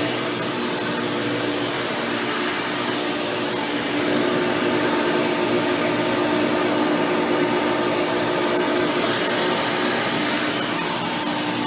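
Hoover Power Drive Supreme upright vacuum running steadily, its motor with an upgraded 20-blade impeller fan giving a steady hum over the rush of air. It gets slightly louder about four seconds in.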